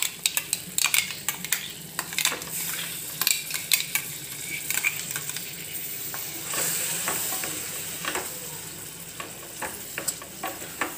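Masala paste and paneer sizzling in hot butter and oil in a steel kadai, with a metal spoon scraping and tapping against the steel as the paste is emptied in and stirred; the sizzling swells for a second or so about six and a half seconds in.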